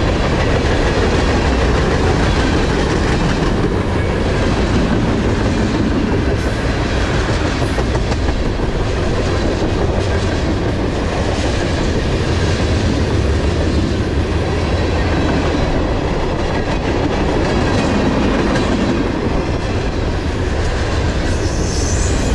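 Freight cars of a mixed manifest train, mostly tank cars, rolling steadily past at about 37 mph: a loud, even rumble with wheels clacking over the rail joints.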